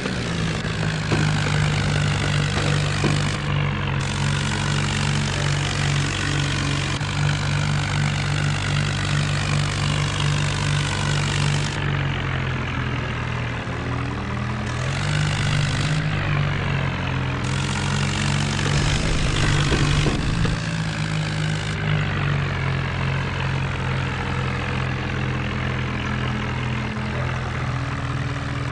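Modified John Deere tractor's diesel engine running steadily and loudly, its low note holding with small shifts in pitch.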